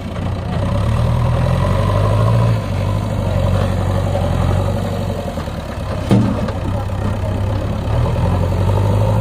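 Heavy diesel engine of a tractor or backhoe running steadily, easing off slightly and picking up again, with one sharp knock about six seconds in.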